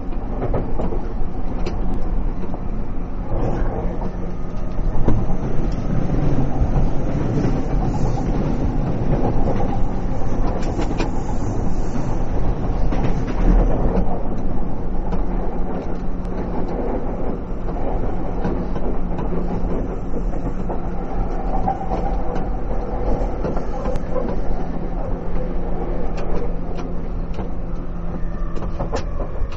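Running sound of a JR East E231-500 series commuter train, heard from inside the car: a steady rumble of wheels on rail with a low hum and scattered clicks of rail joints.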